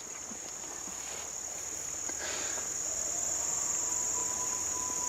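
A steady, high-pitched insect chorus, with faint distant coyotes howling back in answer to a howl call, a long held howl coming in just after halfway.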